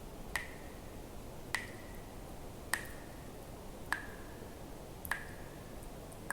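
Water drops falling one at a time at an even pace, about one every 1.2 seconds, six in all. Each is a sharp plink with a brief ringing note.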